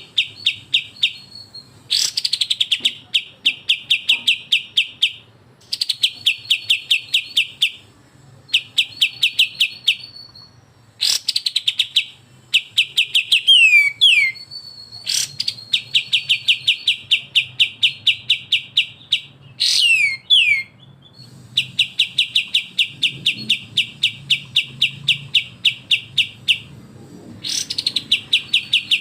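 Songbird besetan from a kapas tembak and cucak jenggot masteran: repeated runs of rapid, sharp chattering notes, about seven a second, each run lasting two to four seconds, with a few quick falling whistles in between.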